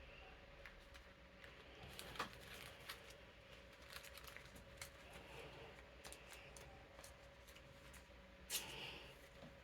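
Faint handling of playing cards and plastic card sleeves: soft rustles and small clicks as cards are slid into sleeves, with two sharper ticks about two seconds in and near the end. A steady electric fan hum runs underneath.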